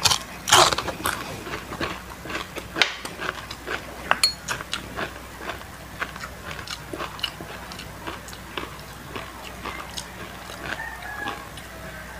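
Close-up crunching and chewing of super crispy deep-fried chicken skin: a rapid run of crisp crunches, loudest in the first second, then steady lighter crunching.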